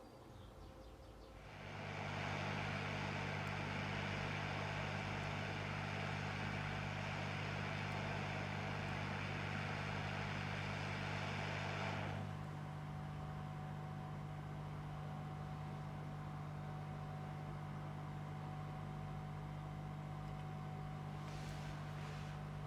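Steady machine hum with a few fixed low tones. A louder hissing, rushing layer comes in about a second and a half in and drops away about twelve seconds in, leaving the hum.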